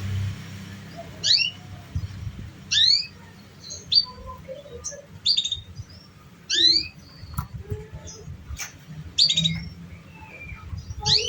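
Domestic canary calling in short, bright chirps: clusters of a few quick sweeping high notes, repeated about every second or so, with a few sharp clicks between them.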